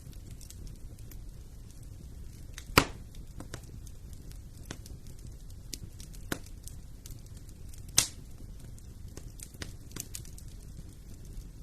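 Wood fire burning in a fireplace: a steady low rumble of flames with scattered small crackles, and two loud pops, about three seconds in and about eight seconds in.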